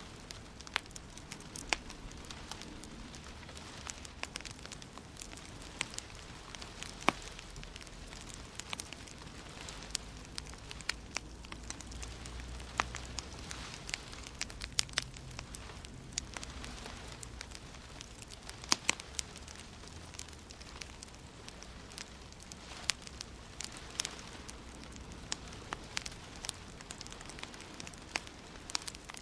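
Wood fire crackling: irregular sharp pops and snaps, several a second at times, over a steady hiss and a low rumble of burning.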